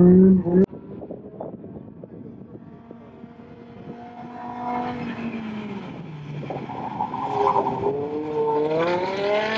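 BMW E60 M5's 5.0-litre S85 V10, muffler deleted, revving hard through an autocross course. The first moment is loud and close, then a sudden cut to a more distant sound. There the revs rise and fall through the turns, getting louder and climbing in pitch near the end.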